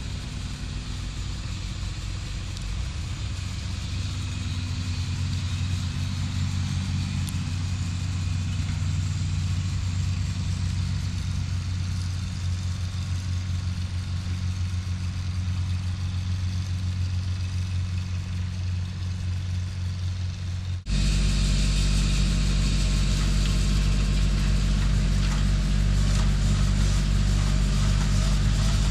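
Engine running steadily, with an abrupt change about two-thirds of the way through to a louder, deeper engine sound.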